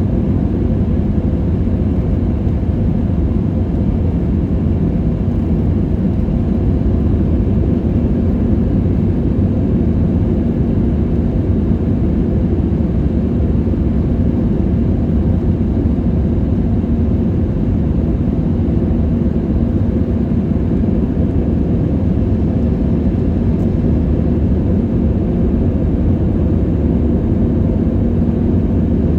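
Airliner cabin noise in flight: the deep, even rush of engines and airflow, with a faint steady hum.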